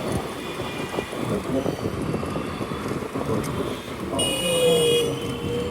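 Road traffic noise and wind on the microphone while riding a scooter, with a vehicle horn sounding once for about a second and a half about four seconds in.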